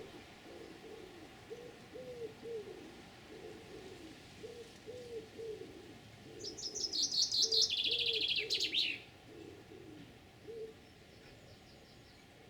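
Garden birds: a pigeon cooing in low, repeated, arching notes, and about six seconds in a small songbird sings one loud, fast trilled song that steps down in pitch over about two and a half seconds. A few faint high notes follow near the end.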